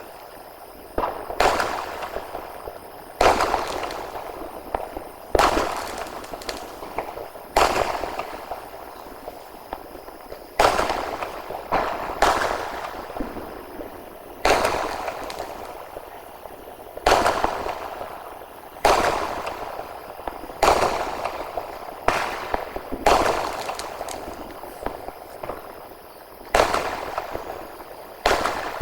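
Sky shot aerial firecrackers bursting one after another, a sharp bang every two seconds or so, each trailing off in a fading tail.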